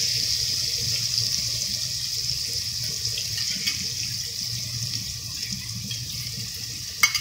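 Wet spice paste sizzling in hot oil in a frying pan, a steady hiss that slowly dies down as the paste settles over a low flame. A spoon clicks once near the end.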